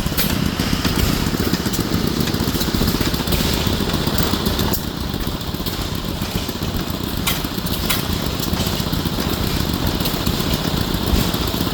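1914 Waterloo 2.5 HP single-cylinder hit-and-miss engine running steadily, with two sharp clicks about seven and eight seconds in.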